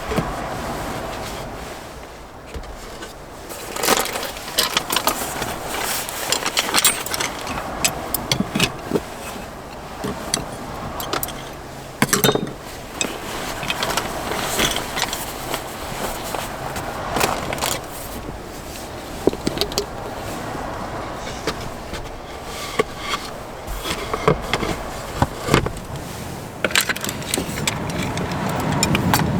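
Hands-on cooking preparation: irregular clinks, knocks and rustling as utensils, cookware and food packaging are handled.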